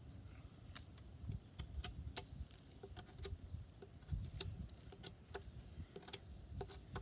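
A Scandi-grind fixed-blade knife shaving wood, with scattered sharp ticks and light scraping at uneven intervals.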